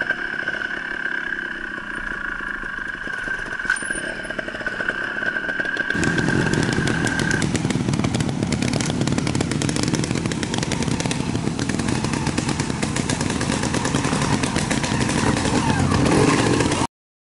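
Trial motorcycle engine running. About six seconds in the sound cuts to a louder, fast-pulsing engine sound, which stops abruptly near the end.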